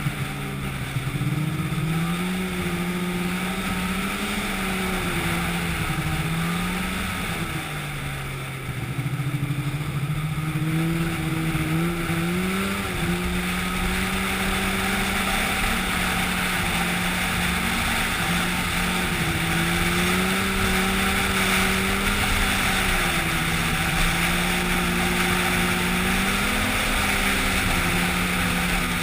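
An engine running steadily, its pitch sagging and picking back up several times as if the load on it changes.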